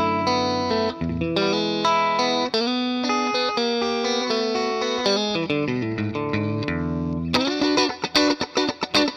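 Electric guitar with a distorted tone, played through a DemonFX Gravity effects pedal into a NUX Amp Academy amp modeller. It plays a line of sustained single notes and chords, then from about seven seconds in switches to short, choppy stopped chords in a quick rhythm.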